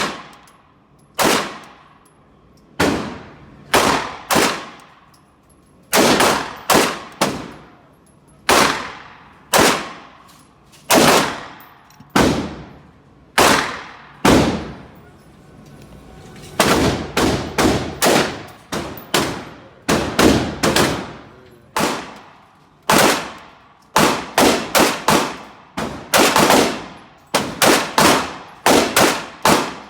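Pistol fired repeatedly: single shots a second or more apart, then quicker strings of shots, each sharp report trailing off in a short echo.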